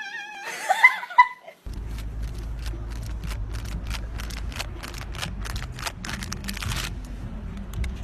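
A cat meowing, its call bending in pitch, ending a little over a second in; then, over a steady low rumble, a quick run of short breathy bursts, about four a second.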